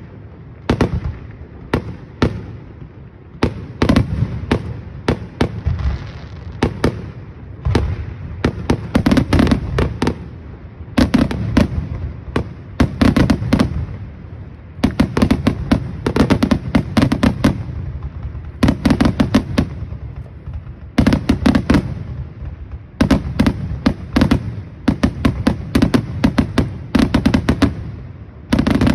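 Fireworks display firing in rapid volleys: clusters of sharp bangs and crackles in quick succession, separated by short lulls, over a rolling low rumble.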